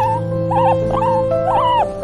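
A dog whimpering in short, high, rising-and-falling whines, about four in two seconds, over background music with long held notes.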